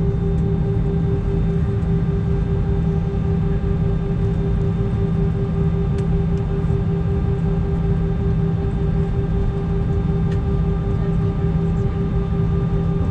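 Airbus A320 jet engines running steadily, heard inside the passenger cabin as a constant rumble with a steady low hum and a higher drone.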